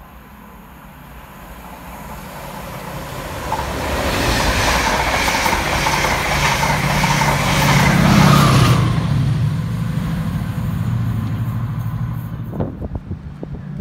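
A Chiltern Railways Mark 3 'silver set' passes at speed, pushed by a Class 68 diesel locomotive with a driving van trailer leading. The noise builds up, runs past with a rhythmic clickety-clack of wheels over rail joints about twice a second, and is loudest near the end of the pass as the rear locomotive's diesel engine goes by. It then fades away.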